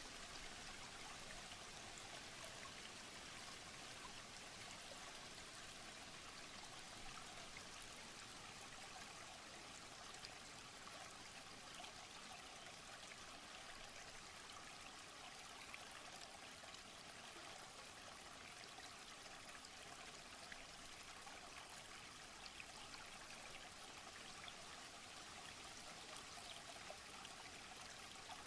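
Faint, steady running water with a light trickle.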